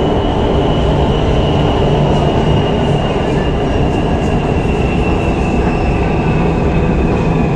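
Electric metro train running on its track: a steady rumble with a thin high whine that drops slightly in pitch.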